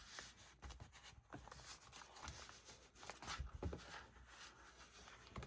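Faint, irregular rustling and rubbing of paper, with a few light taps, as a vellum pocket is pressed and smoothed onto a journal page.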